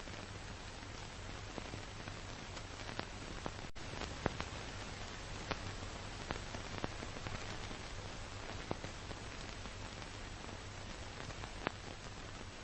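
Steady analog static hiss with a low hum underneath and scattered crackles and pops, the surface noise of an old film or tape soundtrack.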